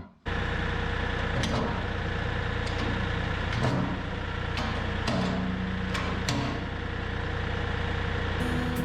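Kioti DK5010 compact tractor's diesel engine running steadily at idle, with several sharp clanks over it.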